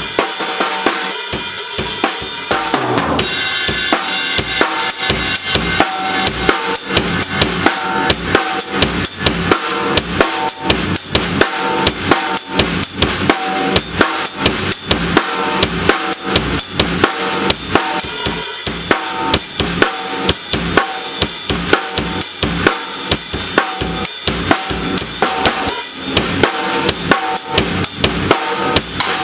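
Music led by a drum kit, with bass drum and snare keeping a steady, fast, even beat over a sustained pitched part.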